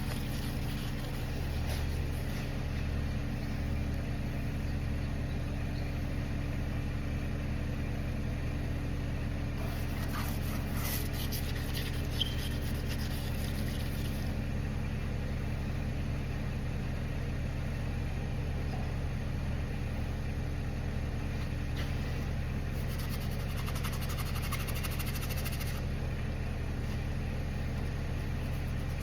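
Steady low mechanical hum of a running motor, even throughout. Faint scratchy, hissing noise comes in twice, about ten to fourteen seconds in and again near the end.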